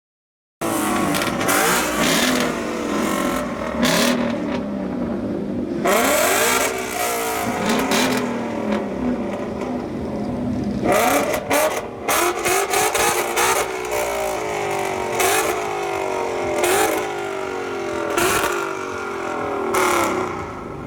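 Ford Mustang engine revving hard over and over, its pitch climbing and dropping in repeated sweeps with noisy surges, as in a burnout. The sound cuts in abruptly about half a second in.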